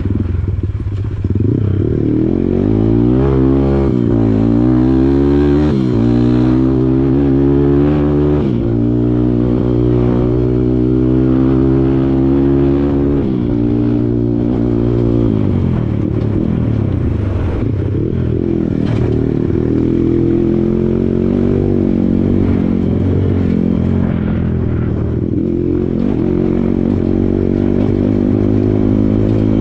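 Kawasaki KLX140 dirt bike's single-cylinder four-stroke engine being ridden off-road, its pitch climbing and dropping repeatedly with throttle and gear changes, with some clatter over it. After about 16 seconds it settles into a steadier, lower run.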